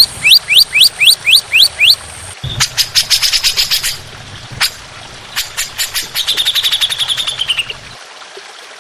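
Recorded songbird song: a run of seven rising whistles, about four a second, then a rapid chattering series of sharp notes, and a held buzzy trill that falls slightly and stops near the end. The parts start and stop abruptly, as if spliced together.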